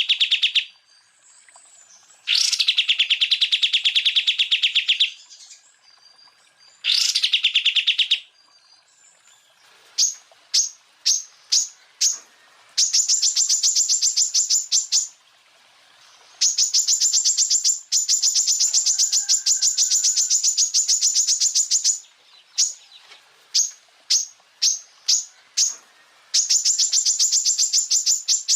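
Cucak ijo (green leafbird) song in rapid-fire 'tembakan' bursts. Each burst is a two-to-three-second rattle of very fast repeated notes. The first few bursts are lower, and later ones are higher and longer, with short separate notes between them.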